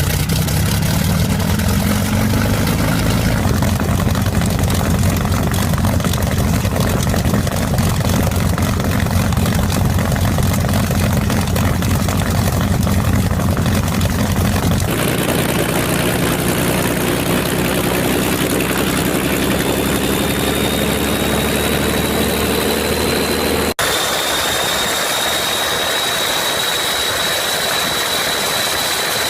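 Engines running, in three spliced clips: first a steady low drone, then a clip whose pitch slowly rises with a high whine coming in, and after a sudden cut a steady high whine.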